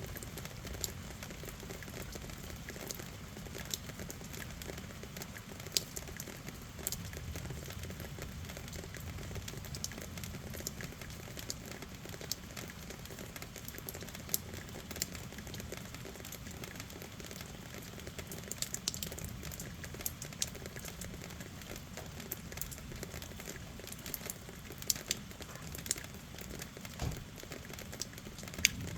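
Steady rain: a constant hiss, with scattered sharp ticks of single drops hitting a hard surface.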